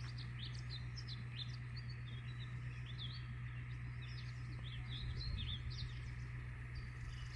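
Small birds chirping and twittering in quick, short calls throughout, over a steady low hum.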